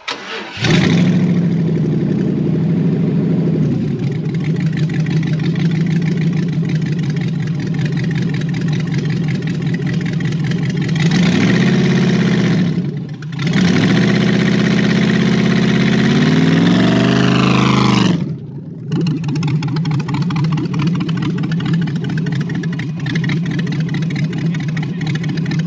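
Drag altered's LS V8 engine running loudly. It is revved twice: a short blip, then a longer hold at higher revs that falls away. It then settles back to a steady idle.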